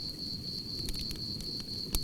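Campfire burning with a low rumble and a few sharp crackling pops, the clearest near the end, over crickets chirping in a continuous high trill.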